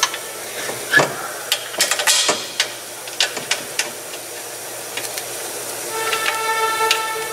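Scattered light metal clicks and knocks from hands and tools fitting a steering rack to a car's subframe, with a short hiss about two seconds in. Background music with held chords comes back in about six seconds in.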